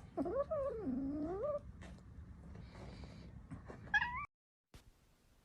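Domestic cat meowing: one long drawn-out meow that dips and rises in pitch, then a short rising meow about four seconds in, after which the sound cuts off suddenly.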